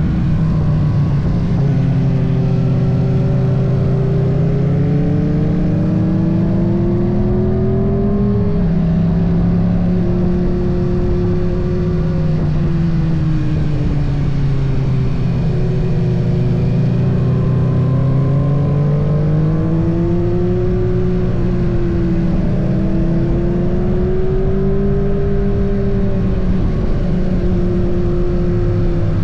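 Kawasaki ZX-6R's 636 cc inline-four engine running steadily while being ridden, its pitch rising and falling slowly several times with the throttle.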